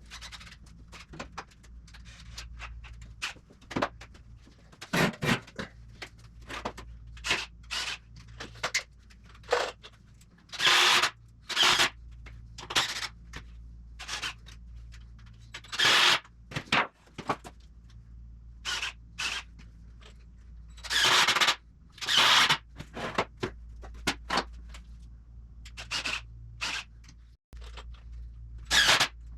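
Nails being driven into halved 2x4 wooden framing pieces: clusters of sharp knocks, with a few longer, louder noisy bursts between them.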